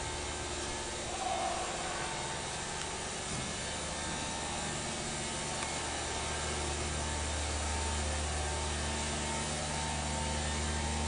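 The 2002 Ford F250 Super Duty's 5.4-liter V8 idling steadily, a low, even engine hum.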